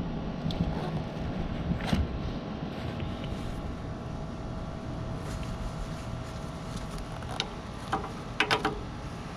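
John Deere 5075E tractor's diesel engine running steadily, with a few sharp clicks or knocks, several close together near the end.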